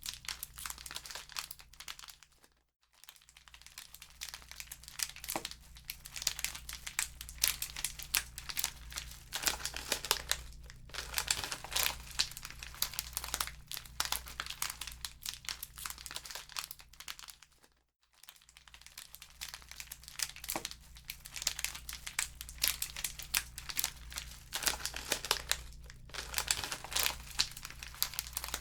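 Wood fire burning in a fireplace, crackling and popping densely over a steady low hum. The crackling fades almost out twice, about three seconds in and again about eighteen seconds in, then picks up again.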